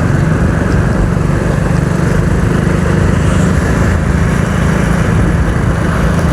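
Motorcycle engine running steadily while being ridden, with a continuous low rumble of engine and road noise.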